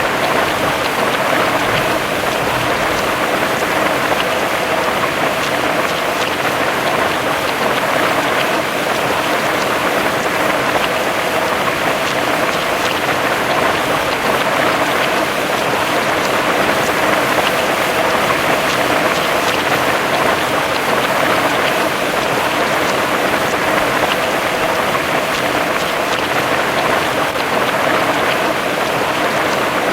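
Heavy rain falling steadily, a dense even hiss of drops on a surface, unchanging in level.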